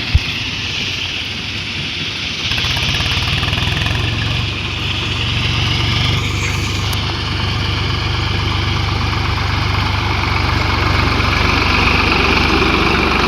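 Diesel tractor engine running steadily, with even low firing pulses. A single sharp click comes right at the start.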